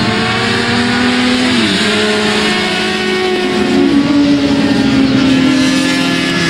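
Motorcycle engines running loud and steady, their pitch stepping down about two seconds in and shifting again around four seconds in.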